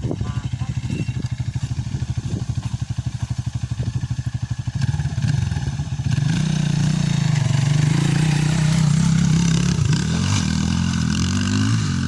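Dirt bike engine running with a rapid, even pulsing at first, then louder from about five seconds in, its pitch rising and falling as the throttle is worked.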